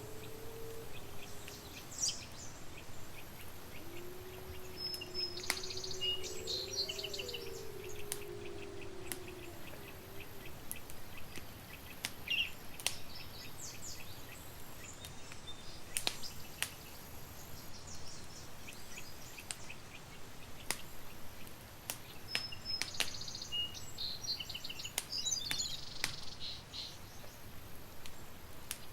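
Campfire crackling, with sharp irregular pops throughout, over wilderness ambience in which birds chirp in short bursts several times. A low wavering tone is heard between about four and ten seconds in.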